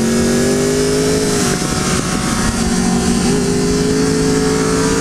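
Triumph Daytona 675's inline three-cylinder engine pulling through a corner, its pitch climbing slowly, breaking off briefly about a second and a half in, then climbing steadily again. Heavy wind rush runs underneath.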